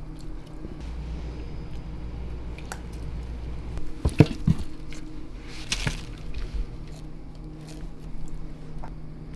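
Kitchen work sounds: a few sharp knocks about four seconds in and a louder wet, scraping handling sound near the middle, with scattered clicks over a steady hum.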